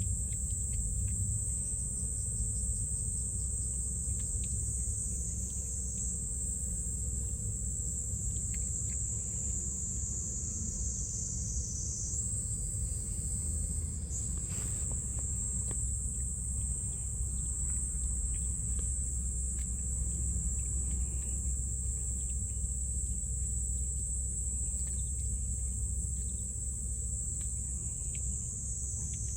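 Chorus of insects, a steady high-pitched shrill ringing, over a low steady rumble.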